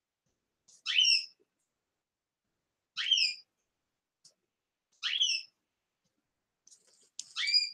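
A caged pet bird calling: four short whistled calls about two seconds apart, each a quick sweep in pitch.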